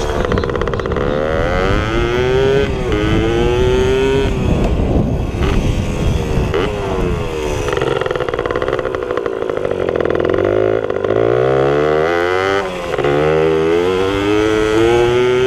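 Pit bike engines revving and accelerating hard, the pitch climbing and then falling back again and again as the bikes shift through the gears. A second, deeper-sounding bike climbs separately about two-thirds of the way through.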